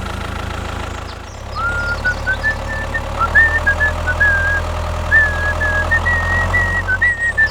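Small engine idling steadily with a low drone. From about a second and a half in, a high wavering, whistle-like tone in short stepped notes plays over it.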